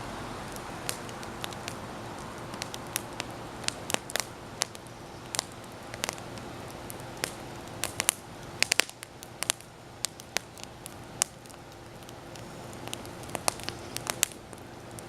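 Wood campfire burning and crackling, with irregular sharp pops, several in a quick cluster about halfway through, over a steady low hiss.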